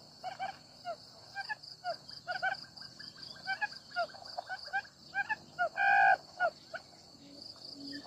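Birds chirping in quick short notes, several a second, with one louder call about six seconds in, over a steady high-pitched drone of insects.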